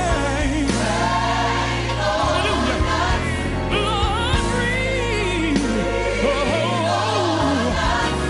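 Recorded gospel song with a choir and solo voices singing sustained lines with vibrato over a steady bass accompaniment.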